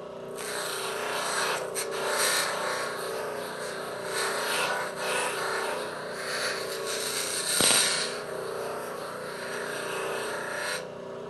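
Abrasive deburring wheel grinding the rough bandsaw-cut edge of a part smooth: a rasping grind that swells and fades as the part is worked against the wheel, loudest near the end, and stops shortly before the end. The wheel's motor hums steadily underneath.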